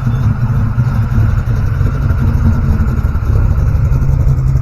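A car engine running steadily at a constant speed, with a low, even hum and no revving.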